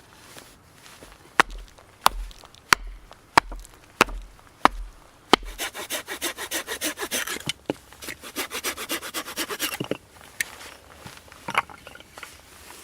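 Seven sharp knocks on wood, evenly spaced a little over half a second apart, then a hand saw cutting wood in fast, even back-and-forth strokes for about four seconds.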